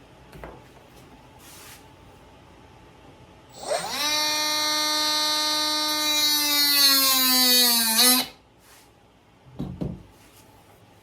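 A small electric power tool runs for about four and a half seconds in the middle: the motor spins up quickly, its pitch sags slowly as it works, then it stops abruptly.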